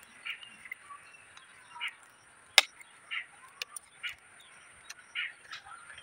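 Short bird calls repeating about once a second, over a faint steady high-pitched hum. A single sharp click about two and a half seconds in is the loudest sound.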